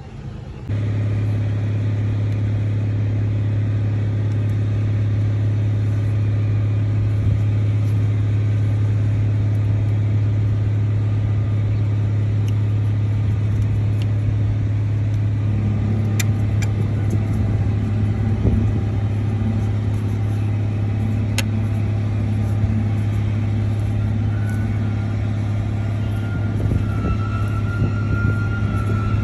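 Freightliner semi truck's diesel engine running steadily with a deep, even hum that comes in suddenly under a second in. About halfway through a second low tone joins the sound.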